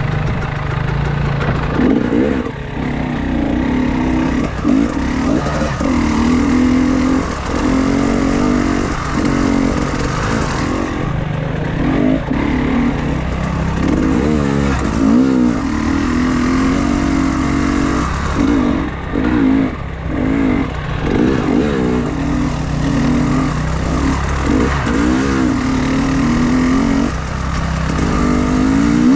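Enduro motorcycle engine running under constantly changing throttle, its pitch rising and falling every second or two with short drops in between.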